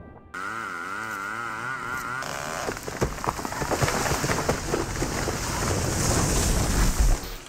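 A wavering, warbling tone for about two seconds, then a rushing, crackling noise of heavy rain that grows louder toward the end.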